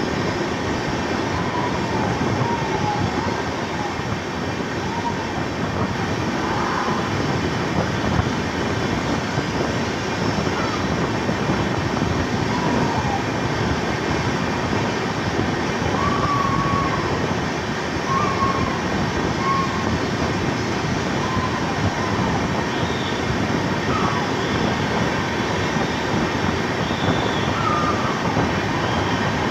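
Train running steadily on the track: a continuous rolling rush of wheels and carriages. Short faint squeaky chirps come and go throughout.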